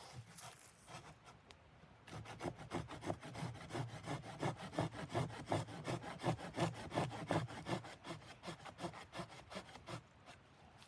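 Wood being sawn by hand, a quick, even run of back-and-forth strokes that starts about two seconds in and stops near the end.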